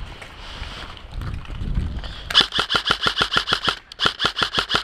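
Airsoft rifle firing on full auto: two rapid bursts of sharp snapping shots, about nine a second, with a brief pause between them, after about two seconds of low rumbling movement noise.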